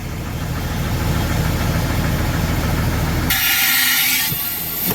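Mack dump truck's diesel engine running steadily, then about three seconds in a loud hiss of air lasting about a second.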